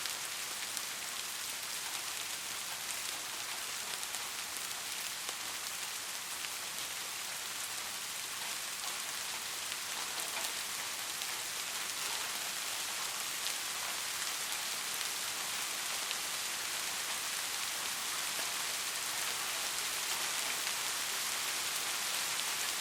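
Steady rain falling, a dense even hiss sprinkled with the small ticks of individual drops, growing slightly louder toward the end.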